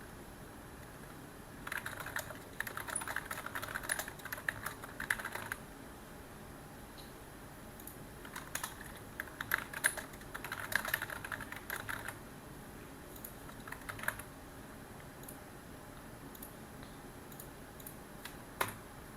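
Typing on a computer keyboard: two runs of fast keystrokes, then a few scattered key presses and one louder single click near the end.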